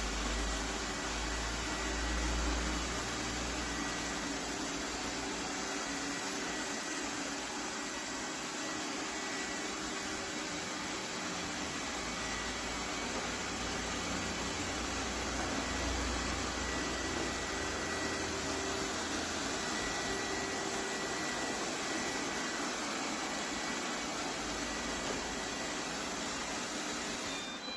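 LEFANT M210P robot vacuum running: the steady hiss of its suction fan with a faint high whine, stopping abruptly at the end.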